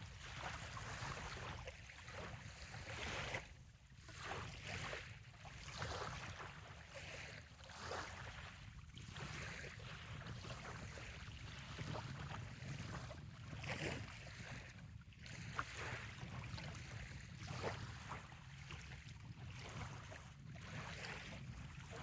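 Small gentle waves lapping on a sandy bay shoreline, coming as soft irregular splashes every second or so, over a steady low wind rumble.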